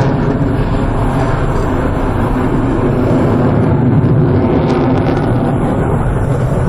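Fighter jet engines during a flying display: a loud, steady rush with a deep rumble underneath.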